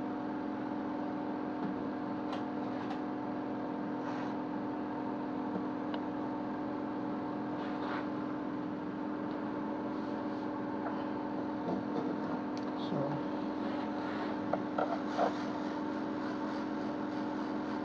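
Hot air rework station's blower running with a steady hum while it heats small capacitors on a circuit board to desolder them. A few faint ticks sound over the hum.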